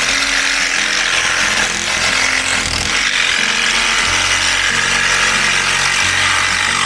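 A power tool running steadily at full load for about seven seconds, a loud, even, hissing whine, then cutting off abruptly at the end.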